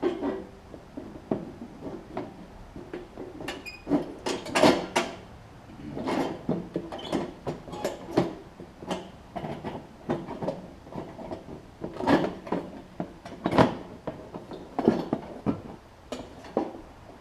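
Irregular metal clanks, knocks and rattles of hands and tools working the belt cover off a Snapper rear-engine rider's mower deck, with the loudest clatters about four and a half, twelve and thirteen and a half seconds in.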